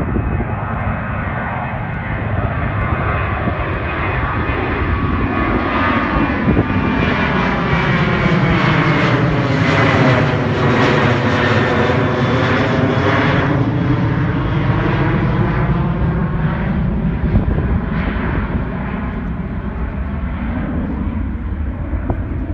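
Jet airliner passing low overhead just after take-off. Its engine noise builds to a peak about halfway through, then eases off, with a sweeping, phasing tone as it goes over.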